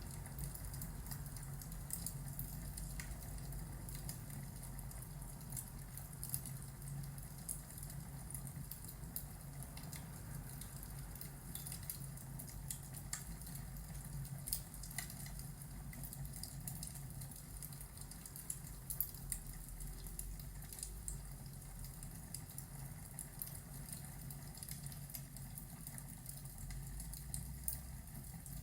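Fireplace ambience: a burning fire crackling with scattered sharp pops over a steady low rumble.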